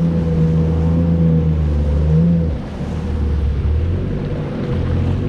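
Jet ski engine running steadily under way. About two and a half seconds in, the engine eases off and the sound drops, then it picks up again near the end, over wind and water noise.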